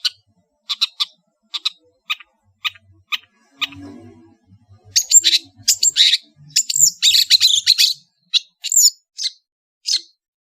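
Long-tailed shrike (cendet) singing vigorously: short, sharp high calls repeated about twice a second, breaking about halfway through into a dense, fast run of varied warbling and gliding notes, then back to single sharp calls.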